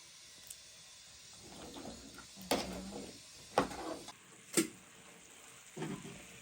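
Four sharp knocks or clatters about a second apart, over a faint steady hiss.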